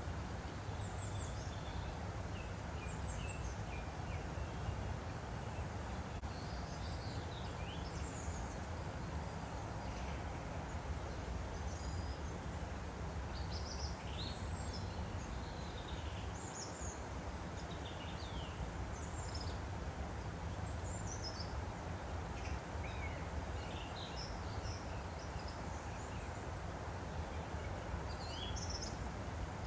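Woodland stream flowing steadily, with small birds singing: many short, high chirps and whistles throughout.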